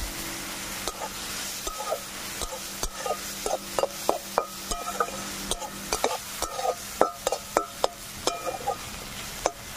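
Small prawns and chopped onion sizzling in mustard oil in a steel wok, stirred with a metal spatula. From about a second in, the spatula clicks and scrapes against the pan several times a second, some strokes with a short ring.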